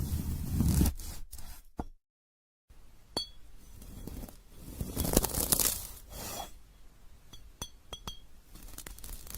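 Glassy 'crystal' fruit being sliced: crunching and crackling with small sharp clinks that ring briefly. One slice ends abruptly about two seconds in. After a short silence a second one crackles louder toward the middle and finishes in a string of light clinks.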